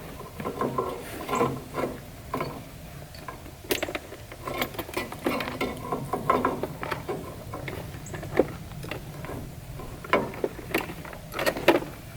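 Irregular metallic clinks, taps and rattles from loose old tractor sheet metal being worked and tapped by hand to free a stuck grille panel.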